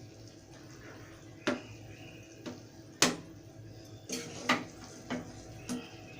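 Kitchen utensils clinking and knocking against a pot or serving dish: about six sharp metallic knocks with brief ringing, the loudest about halfway through.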